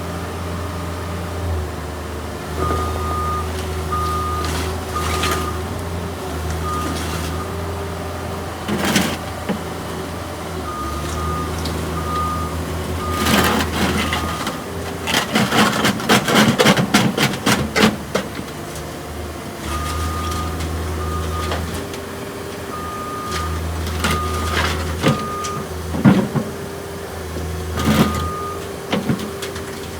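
Cat 305.E mini excavator's diesel engine running steadily while its alarm beeps in repeated bursts of short tones. Metal clanks and rattles come through, densest for a few seconds about halfway through, with a few sharp knocks near the end.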